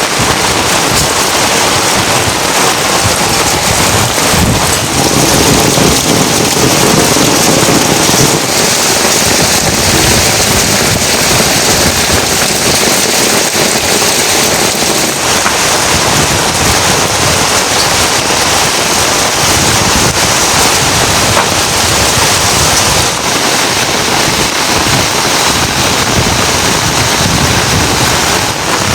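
Heavy rain falling steadily: a loud, even downpour of dense patter.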